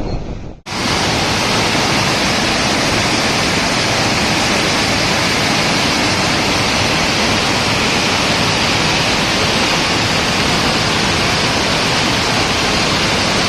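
Rushing floodwater: a loud, steady, unbroken rush of heavy water that starts abruptly with a cut about half a second in.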